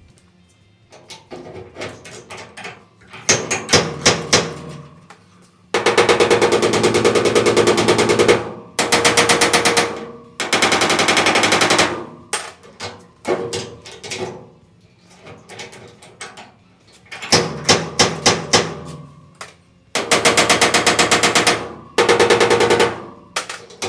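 Rapid hammering on the sheet-steel wheel arch panel, in bursts of fast, evenly spaced blows one to two seconds long with short pauses between. The steel is being worked to tighten a loose, flexing section of the panel.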